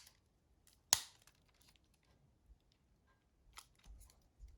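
Plastic parts of a Nokia 6060 phone housing snapping together: one sharp click about a second in, then a few faint clicks and handling noises near the end.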